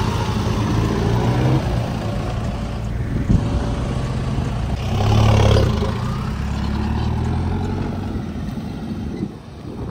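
Off-road SUV engine running, swelling louder for about a second around five seconds in, then dropping away near the end.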